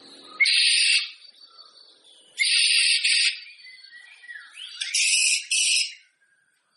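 White-rumped shama (murai batu) singing: three loud, dense, high-pitched phrases about two seconds apart, with softer chirps between.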